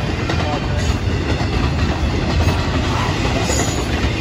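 Intermodal freight train's flatcars, loaded with highway trailers, rolling past at close range: a steady, loud noise of steel wheels running on the rails.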